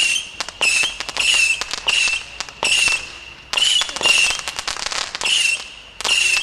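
Stealth Fireworks 'Missile Assault' 150-shot firework cake firing, about ten shots in quick succession: each a short high whistle followed by a burst of crackles.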